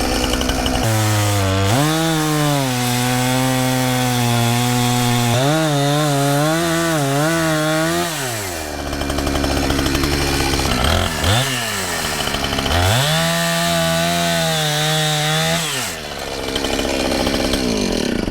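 Two-stroke chainsaw cutting into a walnut tree. The engine revs up about a second in and is held at high speed, its pitch wavering and sagging as it works in the cut. It drops back toward idle about halfway through, revs up into the cut again, and falls away near the end.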